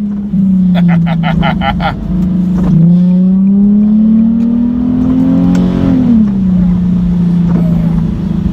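Nissan 370Z's 3.7-litre V6 with its muffler deleted, heard from inside the cabin: a loud exhaust drone that holds steady, climbs in pitch as the car accelerates over a few seconds, then drops back about six seconds in. A short, rapid run of crackles comes about a second in.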